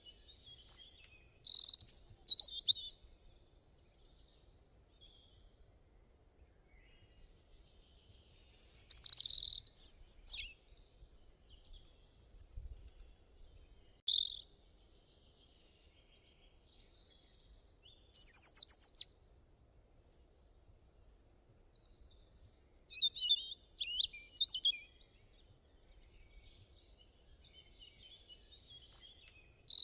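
A songbird singing short, high phrases of rapid notes about every four to five seconds, with quiet pauses in between.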